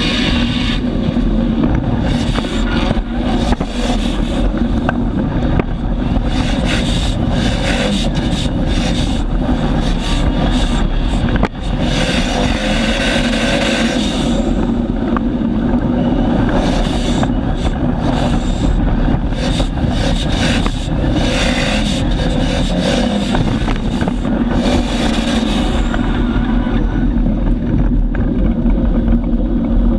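Drift car engine running hard at a steady pitch through a tandem drift, heard from a camera mounted beside the front wheel. Wind buffets the microphone throughout.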